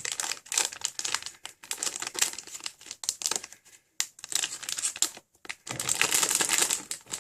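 Plastic packaging crinkling and rustling as it is handled by hand, in irregular bursts with short pauses.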